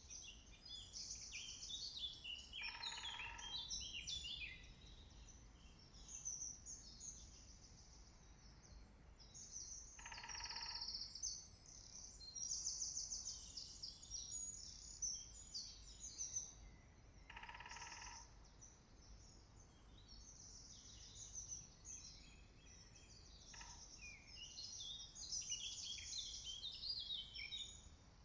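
A woodpecker drumming on wood: three short bursts of rapid knocking, each under a second, about seven seconds apart. Songbirds sing continuously behind it.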